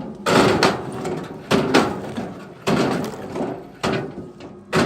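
Firewood being handled: a series of sharp wooden knocks and thuds, about one a second, each dying away quickly.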